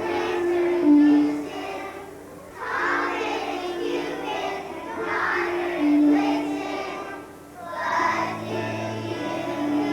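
Kindergarten class singing as a children's choir with musical accompaniment. The song runs in phrases, with short breaks about two and seven and a half seconds in.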